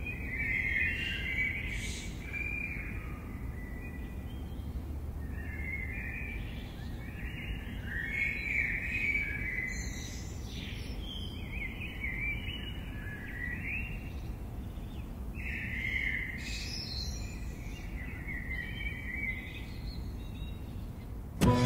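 Several wild birds chirping and warbling, their calls overlapping throughout, over a steady low outdoor rumble. Music starts abruptly at the very end.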